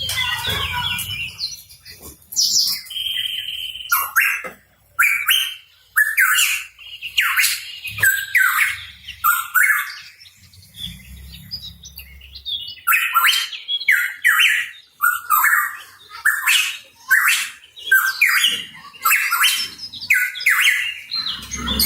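A pitohui calling in quick runs of short, sharp notes, many sliding downward, mixed with harsher squawking notes. There is a brief lull about halfway through.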